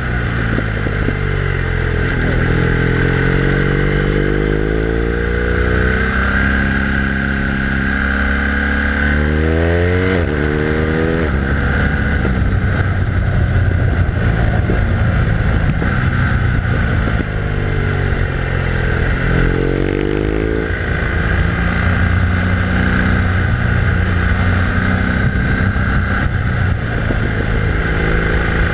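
BMW R1200R LC's boxer twin engine running under load, its pitch rising several times as the bike accelerates through the gears and falling back between pulls, over a steady rush of noise.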